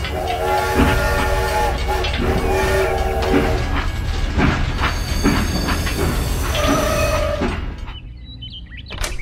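Battery-powered toy steam locomotive running on plastic track, its built-in sound effect sounding a train whistle several times over a steady chugging rumble. The sound falls away near the end.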